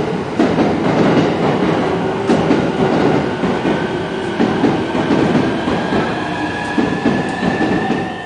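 A train running through the station: steady rail noise with scattered wheel clicks over rail joints, and a thin whine that rises slowly in pitch.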